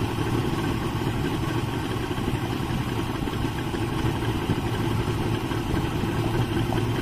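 Twin Yamaha 200 hp two-stroke outboard motors running at a steady speed, a constant low drone with no revving.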